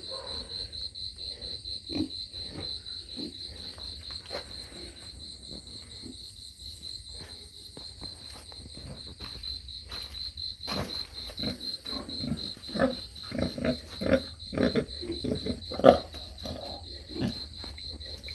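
Pigs grunting in short, separate bursts, coming more often and louder in the second half, the loudest about three-quarters of the way through, over a steady, rapidly pulsing high insect trill.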